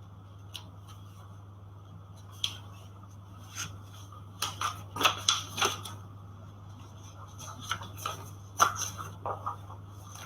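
Short clicks and rustling of papers or desk items being handled, sorted in bursts, over a steady low electrical hum.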